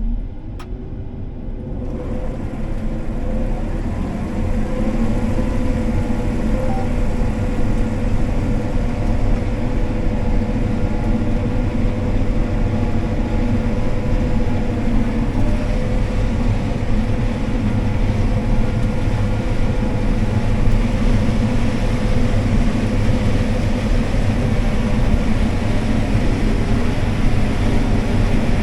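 Combine harvester running while harvesting corn: a steady engine and machinery drone that builds over the first few seconds, then holds level.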